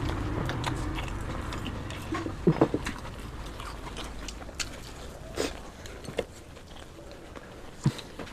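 Close-up eating sounds: biting and chewing, with scattered sharp clicks. The loudest are a quick pair about two and a half seconds in.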